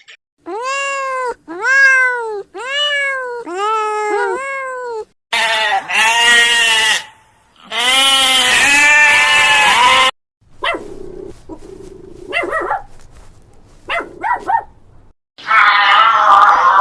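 A run of animal calls from several different recordings, joined with abrupt cuts. It opens with five arching calls in a row, each rising then falling in pitch. Two longer, harsher calls follow, then a few short scattered sounds and another call near the end.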